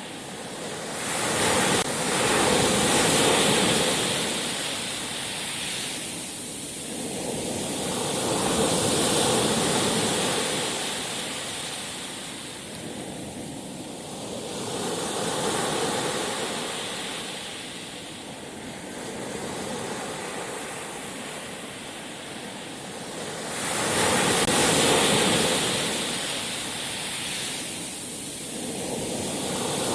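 Sea surf: waves rolling in and washing out, the rush of water swelling and fading in slow surges about every five to six seconds.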